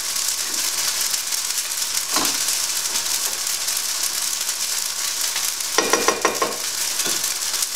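Chicken strips and pak choi sizzling in a frying pan, a steady hiss, with the lid off so the liquid in the pan cooks down. A spatula knocks once against the pan about two seconds in and clacks a few times around six seconds in.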